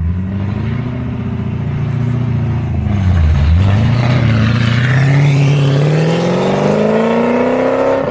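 A car's engine accelerating hard, its pitch climbing. About three seconds in the revs drop and pick up again at a gear change, then climb steadily and louder through the next gear.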